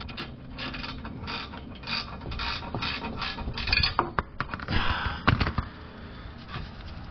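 Hand ratchet clicking in quick repeated strokes while backing out the last exhaust flange bolt, with a couple of louder knocks about five seconds in.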